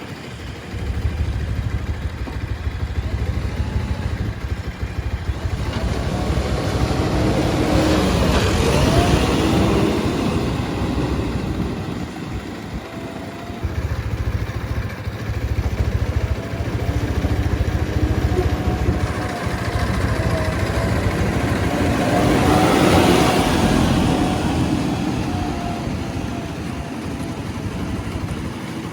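JCB 3DX backhoe loader's diesel engine running steadily, revving up under load twice, about seven seconds in and again about twenty seconds in, with a wavering whine during each rev-up as the machine digs.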